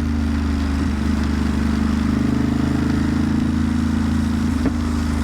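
Ducati Monster's V-twin engine running at a steady cruising speed, its pitch nearly unchanged, over a steady rushing hiss.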